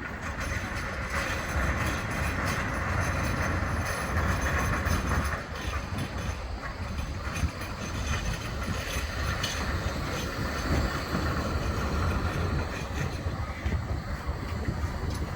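Bombardier Flexity 2 light-rail tram running along the track: a steady rumble of wheels on rail with a few faint clicks.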